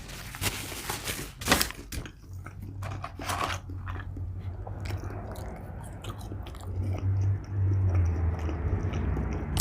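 A person biting and chewing food close to the microphone, with a few crisp bites in the first two seconds followed by steady chewing.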